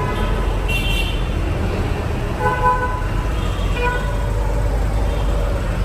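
Road traffic with car horns honking: several short toots over a steady rumble of engines.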